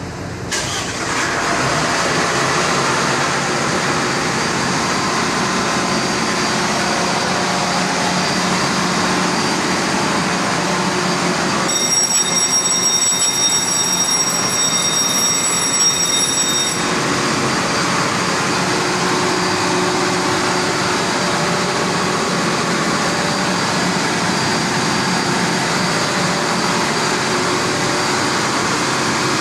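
Ship's diesel emergency generator starting about half a second in, then running steadily under a manual test start. A set of high steady tones sounds for about five seconds midway.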